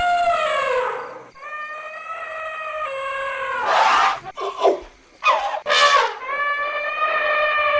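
Elephants trumpeting: long, high, drawn-out calls that sag slightly in pitch, one fading about a second in and another running from about 1.5 to 4 s, then a few short harsh blasts between about 4 and 6 s, and another long call near the end.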